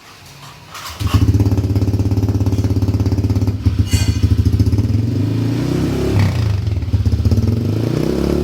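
Honda Vario 125 scooter's single-cylinder engine, fitted with an aftermarket exhaust, starting about a second in and then idling loud and low with a fast, even pulsing beat. Its pitch rises and falls slightly in the second half.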